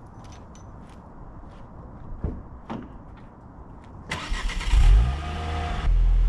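Car engine starting: a few faint clicks and knocks, then about four seconds in the engine cranks and catches, revs briefly and settles into a steady, loud idle.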